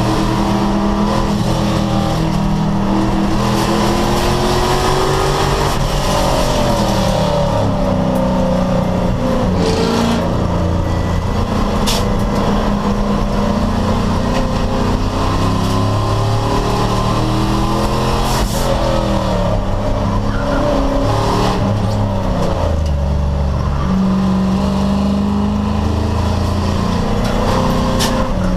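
Race car engine running hard at speed, its pitch repeatedly climbing as it revs up and dropping at gear changes and off the throttle, with a steady rush of wind and road noise.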